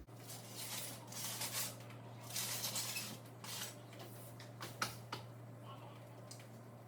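Faint kitchen handling noises: a few short hisses in the first few seconds and two sharp clicks about five seconds in.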